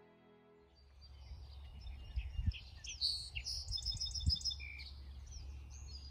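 Several songbirds singing and calling, including a quick run of repeated high notes near the middle, over a low steady rumble, with two low thumps.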